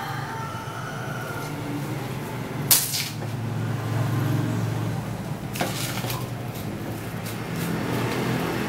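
Manual cup sealer being worked by hand: a sharp clack about three seconds in and another near six seconds, with smaller clicks after, over a steady low hum.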